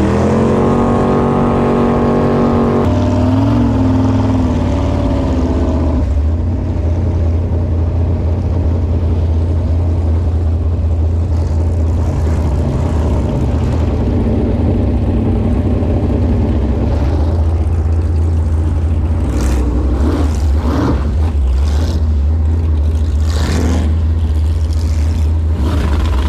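Jet boat's V8 engine running steadily with a deep drone. For the first six seconds a higher engine tone sits over it, shifting in pitch before it drops away.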